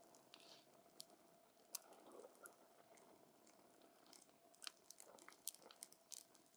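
Wood fire crackling: irregular sharp pops and snaps from the burning wood over a soft hiss, coming more often in the second half.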